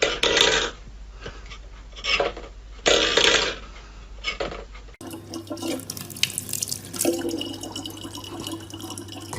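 Water sounds: a few short splashy bursts, then water running steadily with a low hum underneath.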